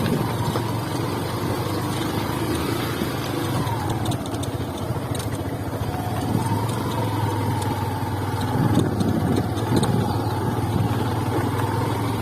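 Motorcycle engine running during a ride, its pitch dipping and then rising again midway.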